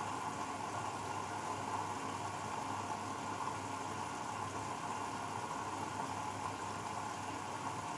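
Grundig Mini 14 washing machine running with a steady, even whir and a low hum.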